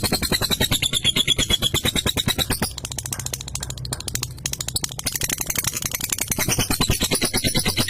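Lovebird giving its long 'ngekek' chatter, a fast run of sharp repeated notes that keeps going without a break and eases off a little in the middle.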